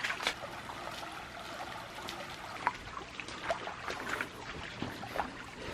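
Shallow creek water trickling over a solid rock bed, a steady wash with a few short clicks scattered through it.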